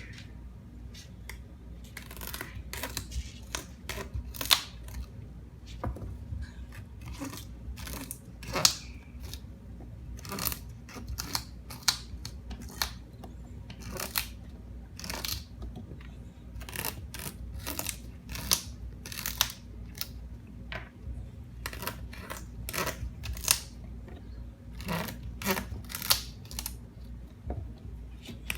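Moluccan cockatoo chewing with its beak: irregular sharp cracks and crunches, a few each second, as it bites something apart.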